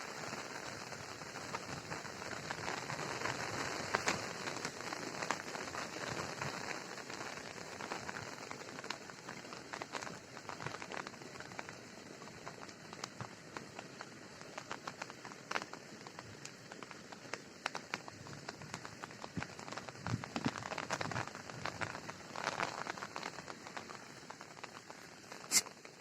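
Rain falling steadily, a continuous hiss with many scattered drops ticking on nearby surfaces, and one sharper tap near the end.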